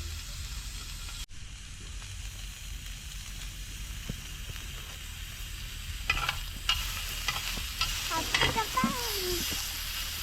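Pork belly frying in a pan, a steady sizzle with crackles and spattering pops that thicken after about six seconds.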